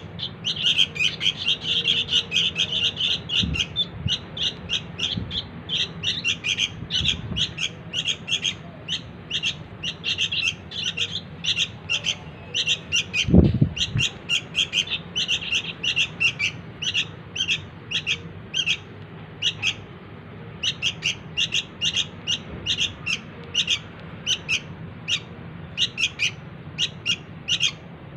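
Sooty-headed bulbul chicks begging, with rapid, continuous high chirps several times a second. A single dull thump comes about halfway through.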